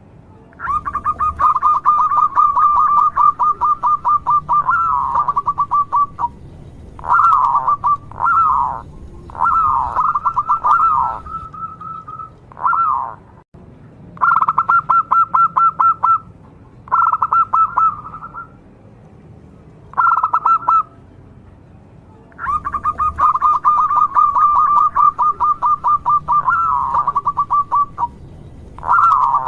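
Zebra dove (local perkutut) singing: several phrases of fast, evenly repeated staccato cooing notes on a steady pitch, some ending in a few longer down-slurred notes, with short pauses between phrases.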